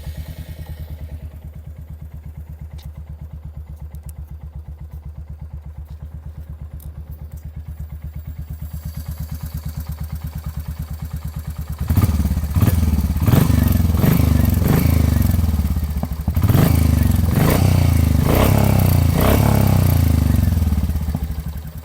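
Royal Enfield Hunter 350's single-cylinder engine idling with a steady low pulse, then about twelve seconds in it gets suddenly louder and is revved in repeated surges before dropping back near the end. A light tappet noise is still there after a cylinder head replacement.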